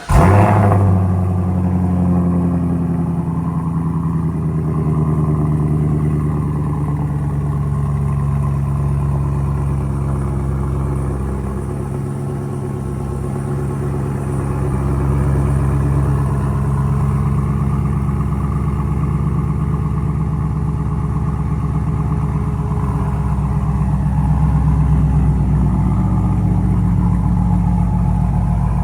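2020 Camaro 2SS's 6.2-litre V8, breathing through Kooks long-tube headers and a Borla S-type exhaust, fires up with a loud flare and then settles into a steady idle, with a deep, classic hot-rod V8 sound.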